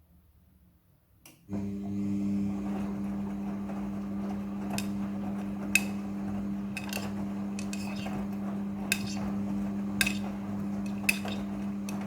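Midea front-loading washing machine starting to run about a second and a half in: a steady motor hum with sharp clicks at irregular intervals on top.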